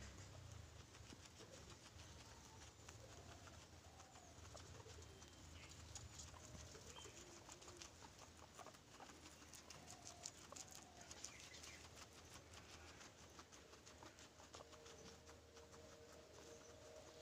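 Faint animal calls, short low chirps scattered through, over light clicking and patter.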